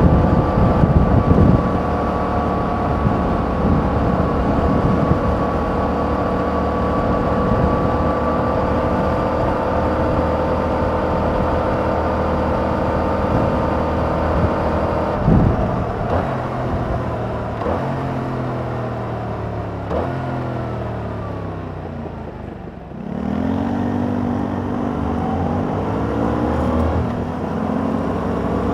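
Yamaha MT-07's 689 cc parallel-twin engine through its stock exhaust, cruising at steady revs. About halfway through, the revs fall in several steps as the bike slows, drop nearly to idle, then climb again as it accelerates away.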